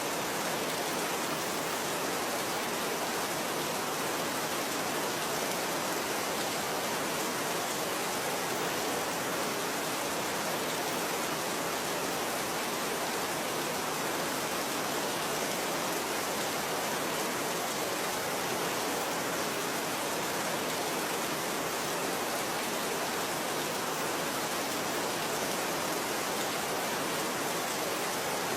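Steady rain falling, an even hiss without breaks or single drops standing out.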